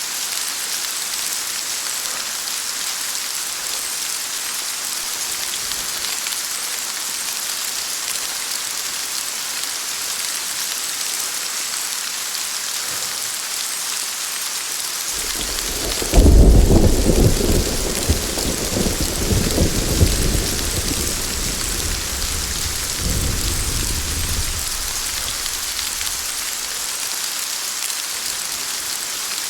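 Steady heavy rain hissing throughout. About halfway through a thunderclap cracks sharply, then rolls and rumbles for several seconds before fading back under the rain.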